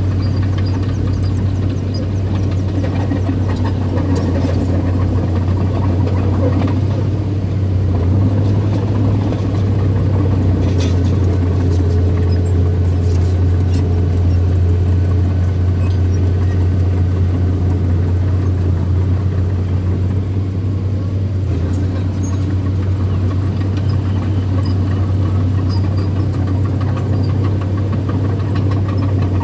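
Small bulldozer's diesel engine running steadily under load with a deep, even hum.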